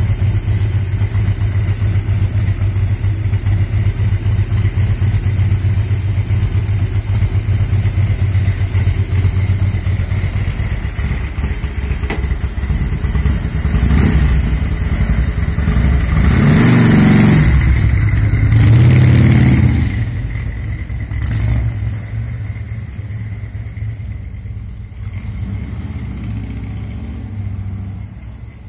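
Harley-Davidson Twin Cam 88 air-cooled V-twin idling steadily for about thirteen seconds, then revved and accelerating as the motorcycle pulls away. The sound fades gradually as it moves off.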